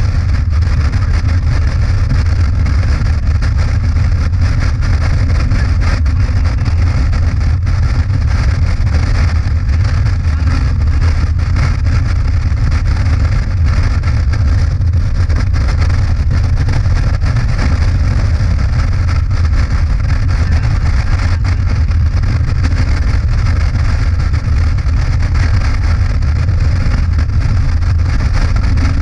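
Motorcycle engine running steadily at cruising speed, a constant low drone with wind and road rush over it and no changes in pace.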